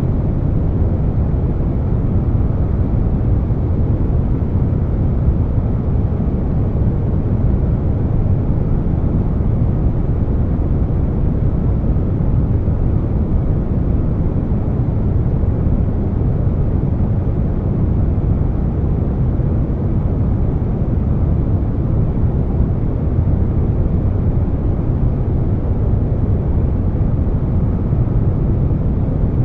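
Air conditioner running, blended with brown noise: an even, deep hiss with most of its weight low and no changes.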